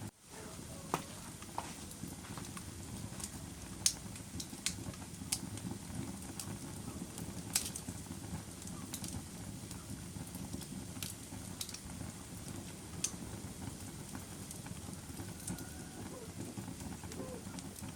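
Wood fire burning in a fireplace: a steady low rush of flames with scattered sharp crackles and pops, the loudest about four and seven and a half seconds in.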